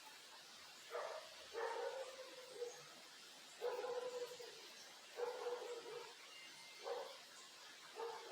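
A dog barking, about six barks spaced a second or more apart, over a faint steady hiss.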